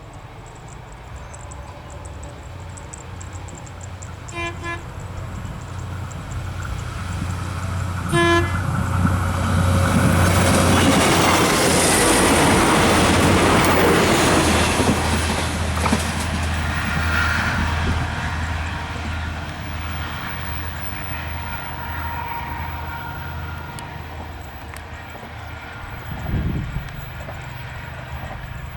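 A train sounds its horn in two short blasts about four seconds apart, then passes close by: a rumble of engine and wheels that grows loud, peaks and slowly fades away.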